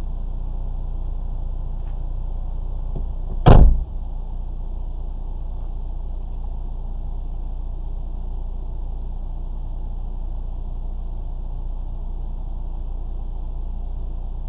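Steady low hum of a stationary car with its engine idling, picked up inside the car by a dashcam microphone, with one loud thump about three and a half seconds in.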